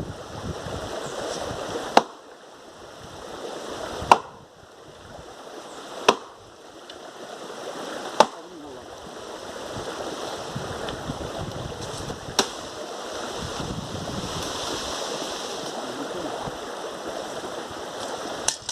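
Six sharp knocks, most of them about two seconds apart with a longer gap before the last two, over a steady rushing noise.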